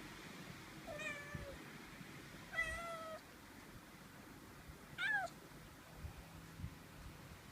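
Domestic cat meowing three times, each meow short, the third one briefest and rising in pitch.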